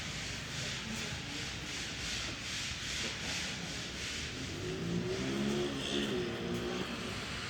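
Rhythmic scraping or rubbing strokes, about two a second, like hand work on a rough surface. Between about four and a half and seven seconds in, a low pitched hum with a wavering pitch rises over it.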